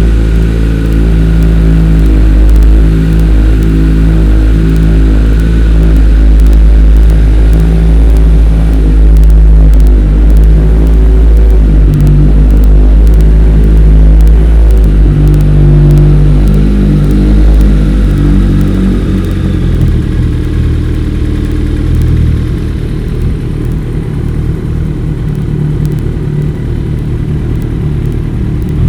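Kawasaki ZX-14R's 1441 cc inline-four running through a Brock's Alien Head slip-on exhaust, its note shifting in pitch and level and easing a little about two-thirds of the way through. The sound is heavily distorted by the camera's microphone.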